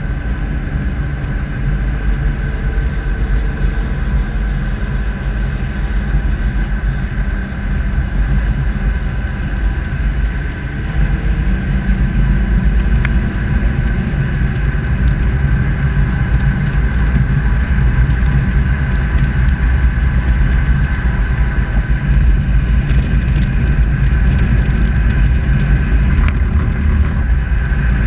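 An SUV driving slowly, heard from a camera on its bumper: a steady low rumble of engine, tyres and wind, with a faint steady whine above it and small slow shifts in engine pitch.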